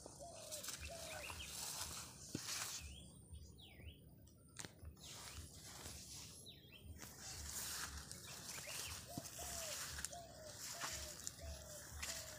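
Birds calling: a short hooked note repeated about twice a second in runs, with a few higher chirps between, over a steady high hiss.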